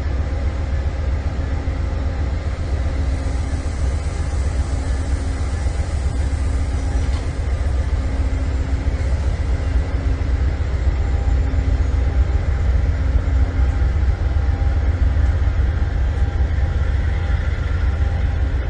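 Train running with a steady, heavy low rumble.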